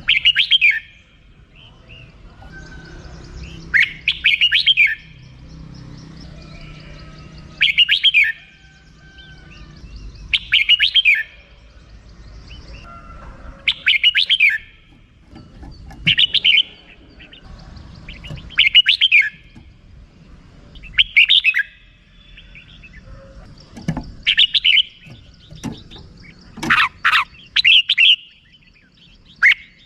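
Red-whiskered bulbul giving its rapid chattering 'rik-rik' call in short bursts, about one every three seconds.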